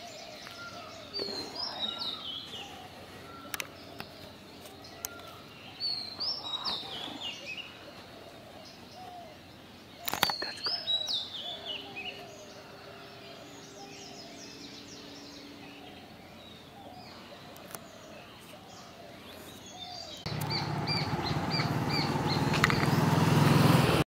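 Wild bird calls: three runs of short, high notes stepping downward in pitch, each lasting a second or two. A sharp click comes between the second and third runs. About four seconds from the end a louder noise comes in, with a fast run of high chirps over it.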